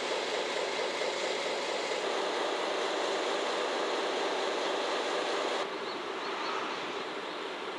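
A train of five 12-series passenger coaches with a DE10 diesel locomotive rolling past, a steady noise of wheels on rail. It gets quieter and duller suddenly about five and a half seconds in.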